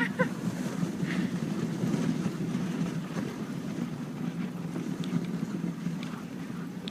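Moving dog sled: a steady rumble of the runners gliding over snow, mixed with wind on the microphone, and a few faint ticks.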